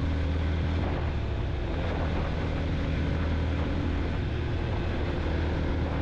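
Yamaha motorcycle cruising at a steady speed: the engine runs with an even, unchanging drone under wind and road noise.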